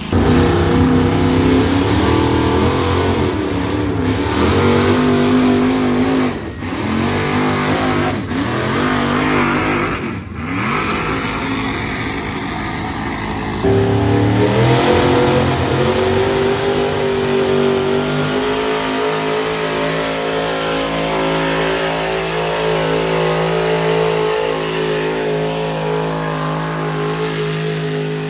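Pulling truck or tractor engine at full power under load on a pull run, starting loud all at once. The revs swing up and down, with brief dips, then hold at one steady pitch for the last ten seconds or so.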